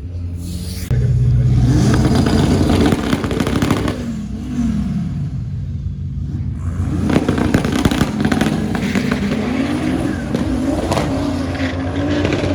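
Volvo V70 drag car's turbocharged five-cylinder engine revving hard, its pitch rising and falling again and again, with crackling from the exhaust. The engine comes in loud about a second in and surges again about seven seconds in.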